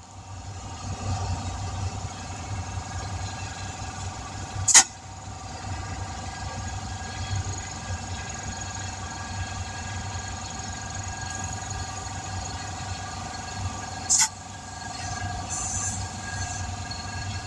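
A motor running steadily, a low rumble with several steady whining tones over it. Two sharp knocks cut through it, one about five seconds in (the loudest) and one near fourteen seconds.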